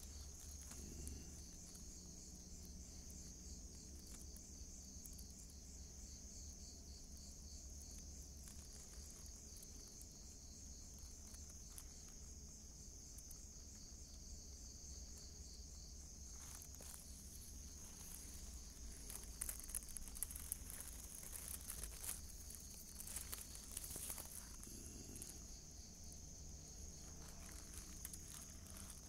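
Steady high chirring of crickets or other night insects, with scattered rustling and scraping clicks through the middle and later part.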